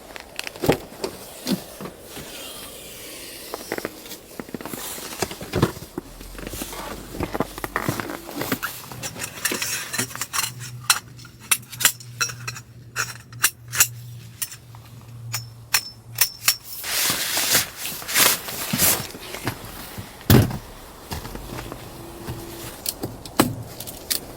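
Irregular knocks, clicks and light clinks of things being handled, coming thicker and louder in the second half.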